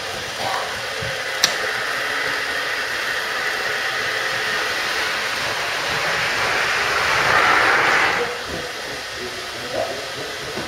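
A model train running on the layout: a steady whirring and rolling noise that swells to its loudest near the end, then drops away, with a single sharp click early on. Faint background chatter goes on underneath.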